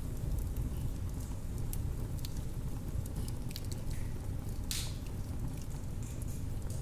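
Wood fire burning in a fireplace: a steady low rumble of flames with scattered sharp crackles and one louder pop a little under five seconds in.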